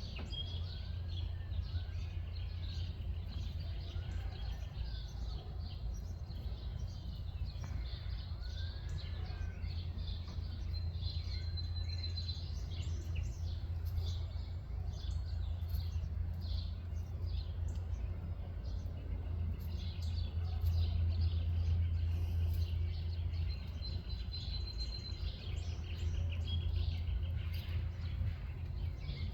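Several birds chirping and calling in short high notes, with a few slower arched whistles, over a steady low rumble.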